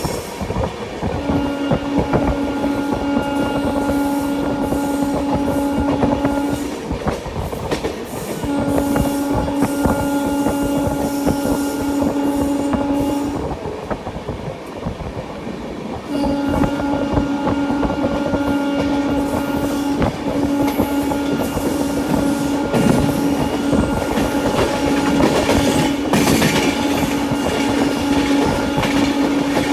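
Express passenger train running at speed, heard from inside a coach: steady rumble and clickety-clack of the wheels on the rails. A steady horn-like tone sounds in three long blasts, the last running about thirteen seconds.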